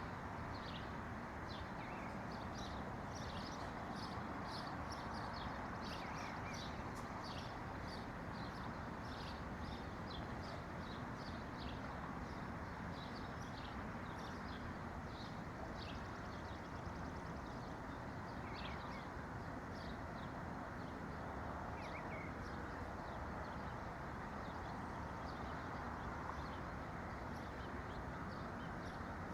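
Small birds chirping: many short, high notes, thick in the first half and thinning out later, over a steady background hiss.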